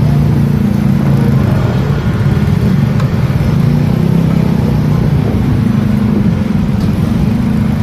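Motorcycle engine running steadily while riding, its pitch shifting slightly with the throttle, over road and wind noise.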